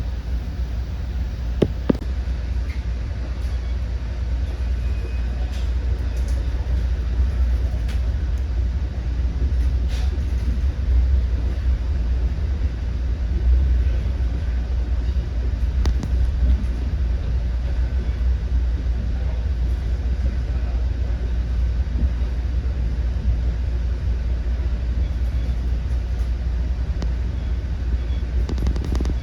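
Commuter train running between stations, heard from inside the passenger car: a steady low rumble of the wheels on the rails, with a couple of sharp clicks about two seconds in.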